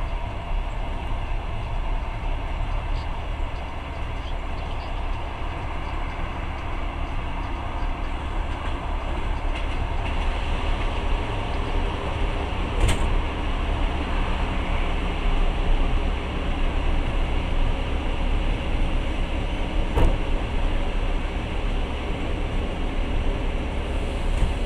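Passenger train running, heard from inside the carriage: a steady rumble of wheels on rails, with two sharp knocks, one about halfway through and another some seconds later.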